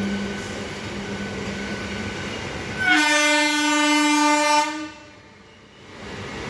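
Train running with a steady rumble, then about three seconds in a locomotive horn sounds one loud held blast of about two seconds before the rumble returns.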